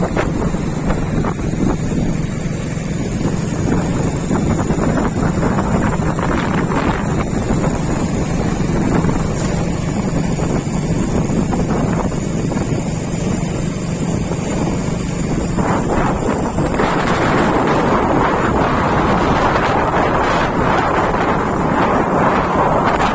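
Steady wind rushing on the microphone over a low, steady engine hum. The rushing grows louder and brighter about sixteen seconds in.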